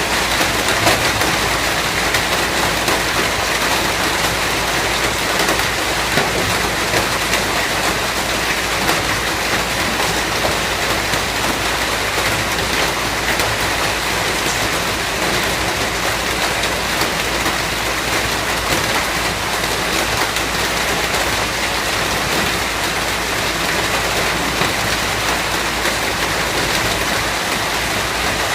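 Steady rain falling, a dense even patter of raindrops on surfaces.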